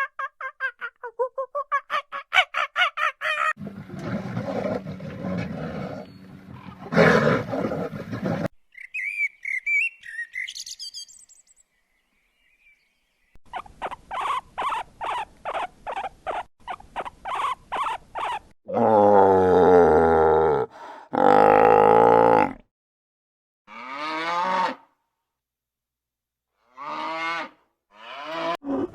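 A run of different animal calls, one short clip after another: a fast pulsed call, a high chirping call, a steady series of pulses about four a second, then two loud, long, deep-voiced calls and a few shorter ones.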